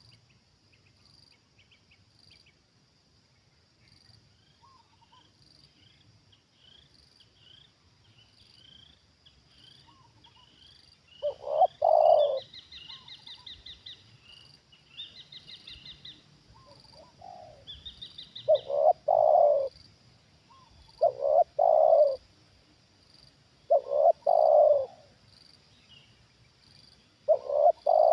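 Spotted dove cooing, a short phrase repeated about five times from about 11 seconds in, loudest of all. Under it, smaller birds chirp and trill and a steady high insect drone pulses.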